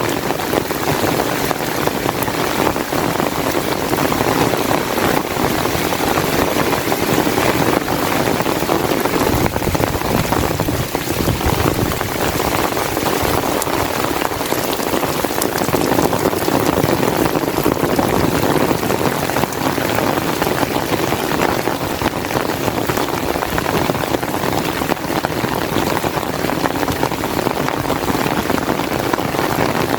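Steady, loud rain: an even, unbroken hiss of falling drops with no pauses.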